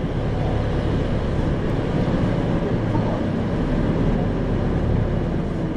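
Isuzu 2RG-LV290N4 city bus heard from inside the cabin: the diesel engine and drivetrain hum steadily under road noise while the bus is under way.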